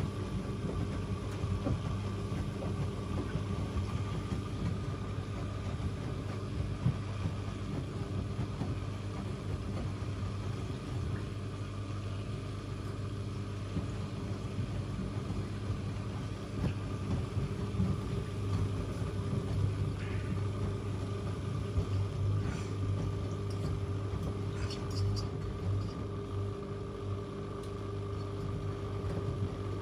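Two front-loading washing machines, an AEG Öko-Lavamat 88840 and a Miele Novotronic W 985 WPS, running together through an easy-care wash cycle. There is a steady motor hum and rumble as the drums turn, with a few light ticks about two-thirds of the way through.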